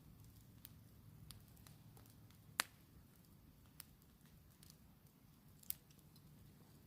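Campfire burning quietly, the wood giving off scattered small crackles and sharp pops, two of them louder than the rest.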